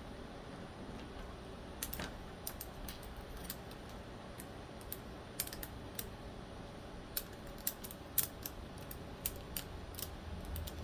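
Small, irregular metal clicks and taps as folding-knife parts and small tools are handled during reassembly, fiddling the spring into place.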